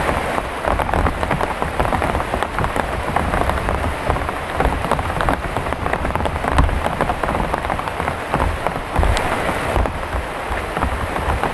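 Heavy rain pouring down in a dense patter of many close drop hits, with a low rumble underneath.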